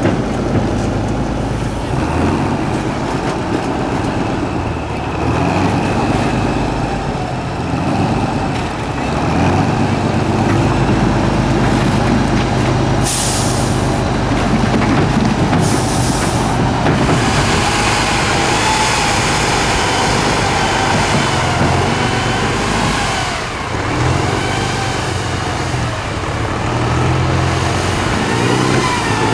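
An 8x8 Tatra off-road truck's turbo-diesel engine running under changing load, its revs rising and falling. Two short air-brake hisses come near the middle.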